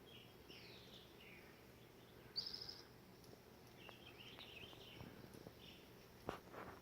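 Small birds chirping faintly, with a short high trill about two and a half seconds in and a quick run of chirps a little later. A couple of soft knocks near the end.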